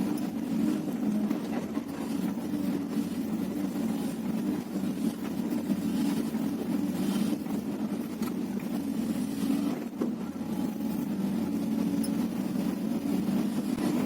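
Diesel engine of a Hyundai 330LC crawler excavator running steadily, a continuous low drone with a few faint clicks.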